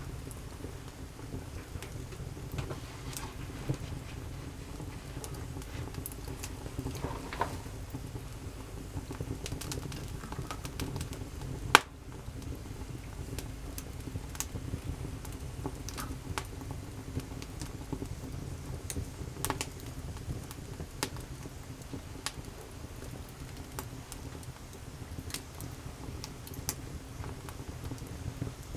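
Wood campfire crackling, with scattered snaps throughout and one sharp, loud pop about twelve seconds in.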